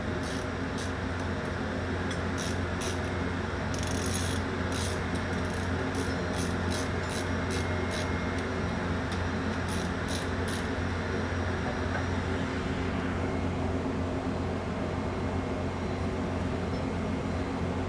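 Steady engine-room machinery hum, with a run of short, sharp metallic clicks over the first ten seconds or so from hand tools working the bolts of a steering-gear hydraulic filter housing. Some of the high hiss in the background drops away about two-thirds of the way through.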